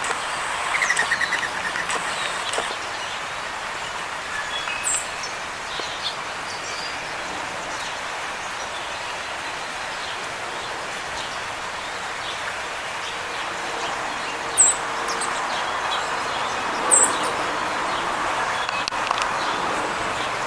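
Small birds chirping: a few brief, very high chirps, the two loudest about fifteen and seventeen seconds in, and a short rapid trill about a second in, over a steady background hum.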